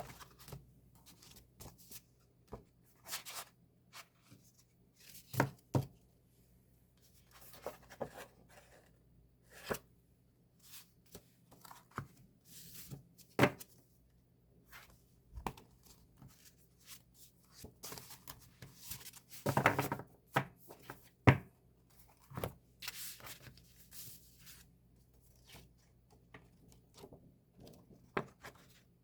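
Hands handling and opening K-pop album packaging: irregular rustling and tearing of wrapping and paper, with scattered light knocks and clicks. A longer rustle about two-thirds through is followed by a sharp knock.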